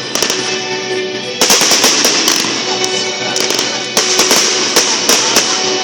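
Fireworks going off in rapid, crackling salvos of bangs, with dense bursts about a second and a half in and again about four seconds in, over music playing.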